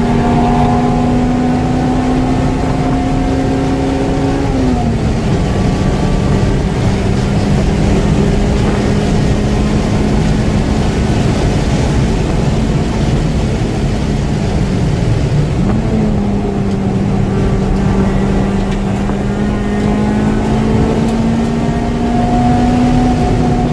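Acura Integra Type R's four-cylinder engine running at high revs under load on track, over steady wind and road noise. Its pitch drops sharply about four and a half seconds in, dips briefly around fifteen seconds, then climbs slowly again near the end.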